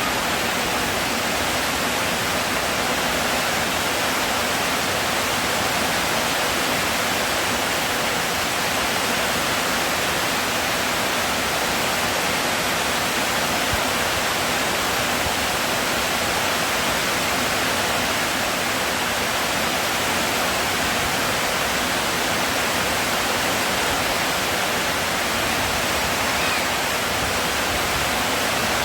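Heavy rain pouring down: a steady, even rushing hiss with no breaks.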